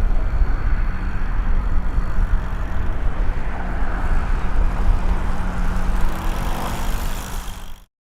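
Steady travelling noise: wind buffeting the microphone with a fluctuating low rumble, over road noise and a faint steady hum.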